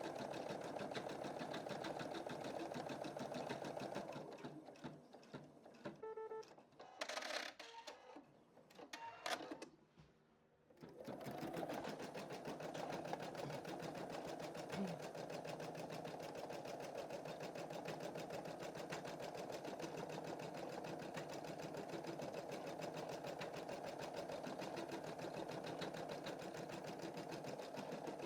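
Computerized embroidery machine stitching with a fast, steady needle rhythm. About four seconds in it slows and stops, with a short beep and a few clicks. About eleven seconds in it starts stitching again.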